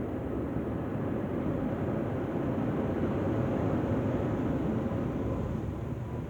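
Soft-touch automatic car wash machinery running with a steady rushing noise that swells a little in the middle.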